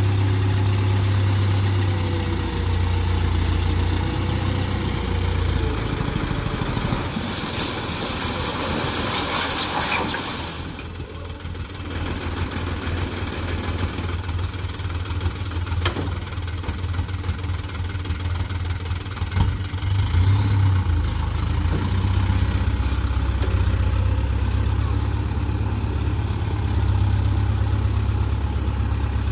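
Diesel dump truck engine running at a steady low rumble, with a loud hiss lasting a few seconds about eight seconds in.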